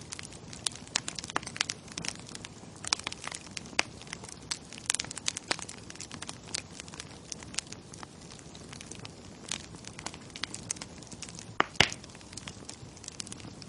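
Wood fire crackling: a soft steady hiss dotted with many sharp, irregular pops and snaps, the loudest about twelve seconds in.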